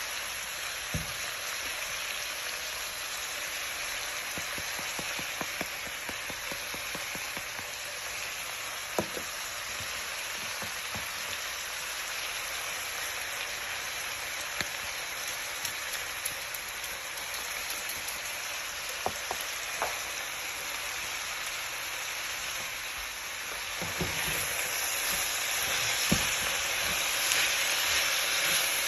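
Chopped cabbage with bacon and peppers sizzling steadily as it fries in a pan, with a few sharp knocks along the way. The sizzle grows louder near the end.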